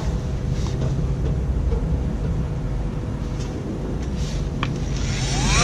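Steady low mechanical rumble and hum with a few faint clicks. Music comes in right at the end with a rising slide.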